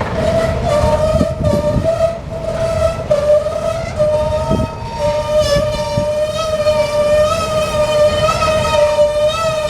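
Freight train's brakes squealing as it slows to a stop: one long, unbroken high squeal that wavers slightly in pitch, over the low rumble of the rolling wagons.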